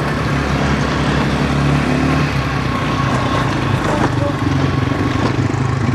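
Quad bike (ATV) engine running steadily while being ridden, with a rough, bumpy noise over the engine note.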